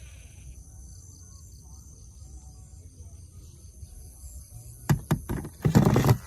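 A steady low hum, then a few sharp knocks about five seconds in and a louder clattering rattle near the end.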